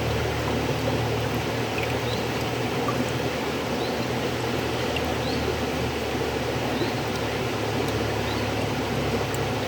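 River water flowing steadily, a continuous even rush with faint short high chirps now and then.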